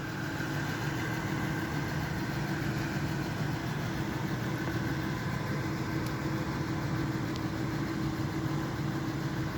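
Carbureted pickup truck engine idling steadily and smoothly.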